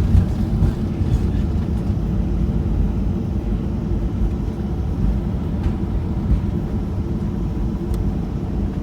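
Cabin noise inside a Boeing 737-800 rolling on the ground just after landing: a steady low rumble of the engines and the wheels, with a brief jolt about a second in.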